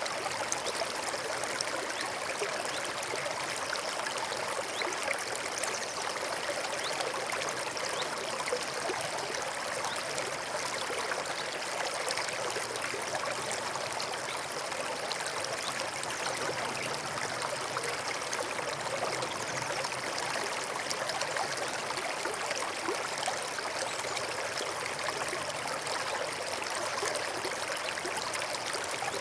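Forest stream running steadily, a continuous babble and trickle of water over stones.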